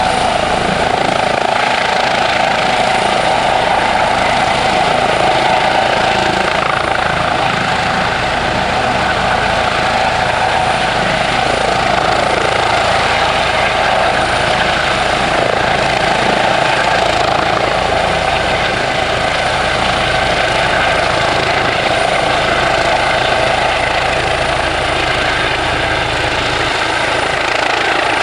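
Eurocopter EC135 helicopter's twin turbine engines and rotors running steadily.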